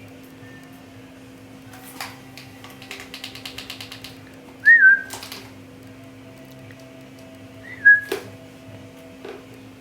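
Two short parrot-like whistles, each a quick up-and-down flick in pitch, one about halfway through and one near the end. Between them come a few sharp clicks and a brief rattle of rapid ticks, about ten a second.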